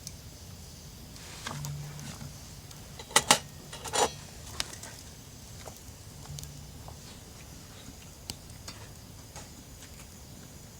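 A few sharp knocks or clacks, two close together about three seconds in and a louder one a second later, with scattered lighter ticks afterwards, over a faint low hum.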